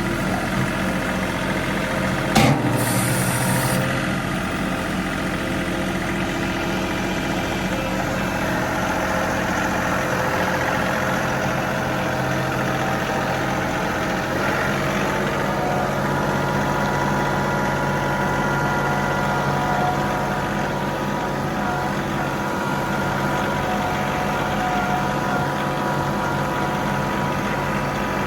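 John Deere 3038E compact tractor's three-cylinder diesel engine running steadily. A single sharp knock comes about two seconds in, followed by a brief hiss.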